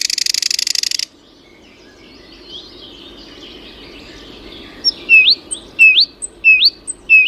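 Wild songbirds singing: a loud, fast trill for the first second, then fainter distant warbling, then a bird repeating a short note that sweeps sharply upward, four times from about five seconds in.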